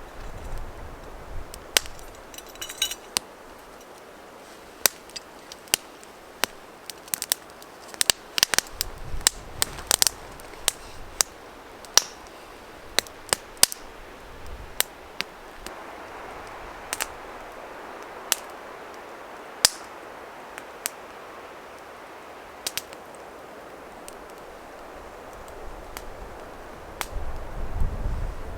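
Small wood fire in a Bushbox stove crackling, with irregular sharp pops, a few of them loud, over a steady hiss.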